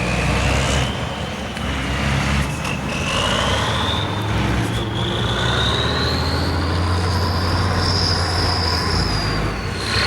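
Trial truck engine running hard, with a high whine that slowly rises and falls over the steady low rumble.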